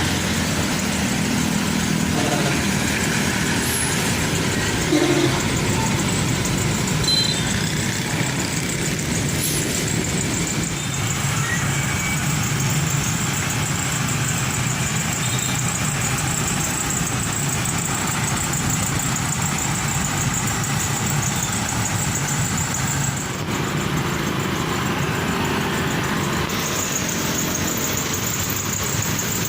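Heavy truck diesel engine running with steady road and traffic noise; the sound changes abruptly about 23 seconds in.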